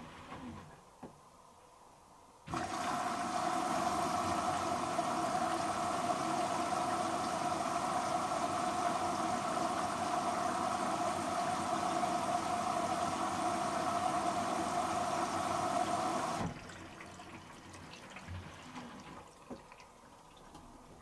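Hoover H-Wash & Dry 500 washer dryer filling with water: the inlet valve opens suddenly about two and a half seconds in, water rushes in with a steady hiss and hum, and the valve shuts off suddenly about fourteen seconds later.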